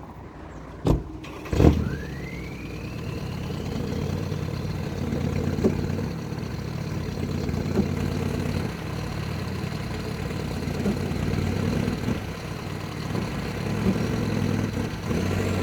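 Two sharp knocks about a second in, then a mini truck's engine running and working to pull out a buckthorn stump on a rope, with a rising whine just after the knocks and the engine note swelling and easing as the stump is wiggled.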